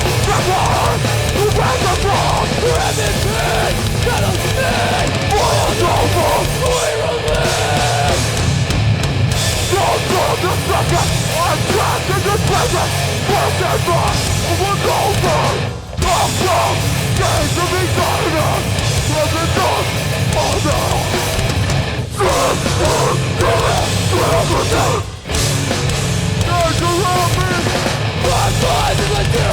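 Hardcore band playing live at full volume, guitars and drums pounding together, with the band stopping dead for a split second three times, about 16, 22 and 25 seconds in.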